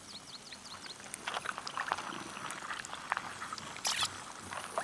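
Small animal calls: a quick run of short high chirps at the start, then scattered clicks and squeaks, with a louder harsh rasp about four seconds in.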